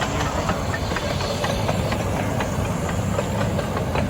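A 15-inch-gauge miniature steam locomotive, the RH&DR's Samson, rolling past with its train: a steady low rumble with many small clicks and knocks from the wheels on the track, and some hiss.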